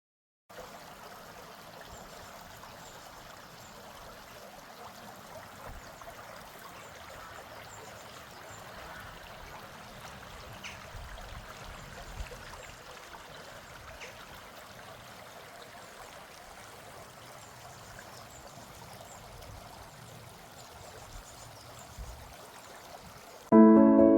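Running water of a stream, a steady even rush. Music starts suddenly near the end.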